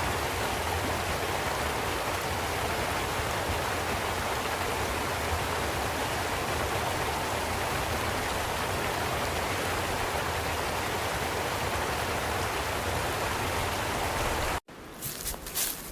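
Steady, even rush of falling or flowing water. About a second before the end it cuts off abruptly, and a quieter scene with a few soft knocks follows.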